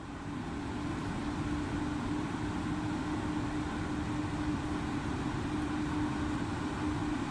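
A locomotive-hauled passenger train approaching slowly: a steady hum over a low rumble, swelling over the first second or two and then holding.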